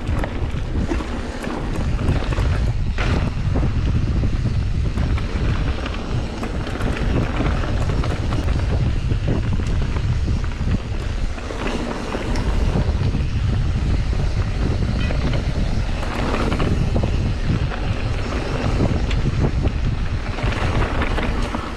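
Wind buffeting the microphone of a camera riding along on a mountain bike, over the tyres rolling on a dirt trail. Short clicks and rattles from the bike run through it.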